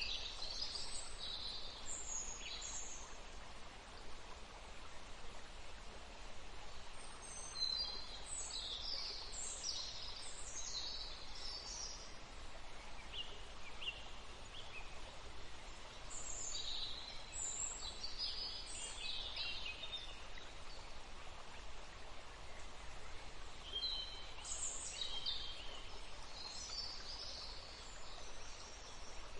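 Steady hiss of flowing water, with songbirds chirping over it in short spells several times.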